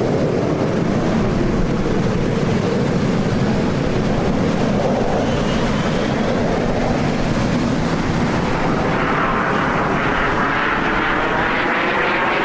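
Jet aircraft flying past at an air display, a loud steady rushing roar. About nine seconds in, the roar takes on a sweeping, phasing sound as the jets pass.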